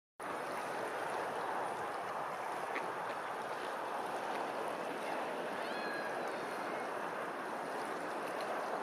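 Steady rush of running water that cuts in abruptly at the start, with faint bird chirps over it, including a short run of high notes about six seconds in.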